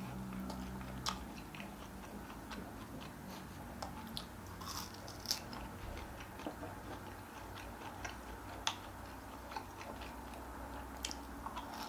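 Close-up eating: chewing and biting on salt-grilled pork back ribs, with scattered small clicks and taps.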